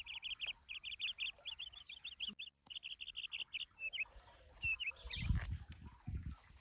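A bird chirping in a fast run of short high notes for about three seconds, then a few single chirps. Under it there is a thin steady high tone like an insect. About five seconds in there is a brief low rumbling.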